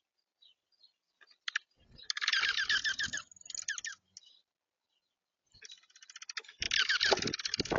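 Rapid clicking and scratching of a bird or squirrel at the feeder, close to the feeder camera's microphone, in two bursts about four seconds apart.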